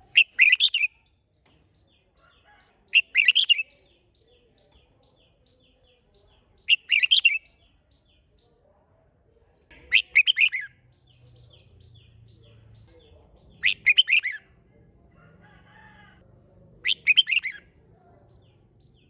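Red-whiskered bulbul singing: six short, loud phrases, each under a second, repeated about every three and a half seconds, with faint chirps between them.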